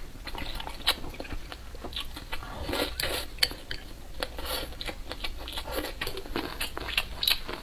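A person eating instant noodles close to the microphone: chewing and crunching, with many short, irregular mouth clicks and smacks.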